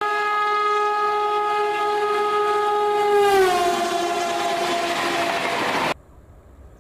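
Locomotive horn sounding one long blast as an express train comes through at speed; about three seconds in its pitch drops as the train passes, with the rush of the train swelling, then the sound cuts off suddenly.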